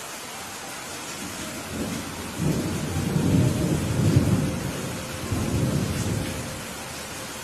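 Steady rain with a long rolling rumble of thunder that swells about two seconds in, is loudest near the middle, rolls again and fades out near the end.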